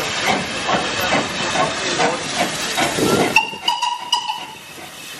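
Steam tank engine chuffing as it pulls away, its exhaust beats coming about twice a second. A little over three seconds in, the chuffing gives way to a short, fainter steam whistle sounding several tones at once.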